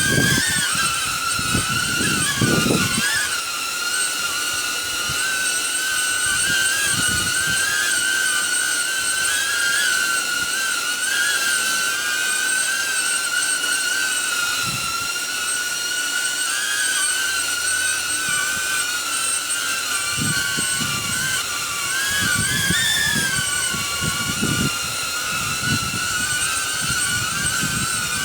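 Quadcopter drone's propellers whining steadily in a hover, the pitch wavering slightly as the motors correct against the gusts. Wind buffets the microphone in low rumbling bursts near the start and again from about twenty seconds in.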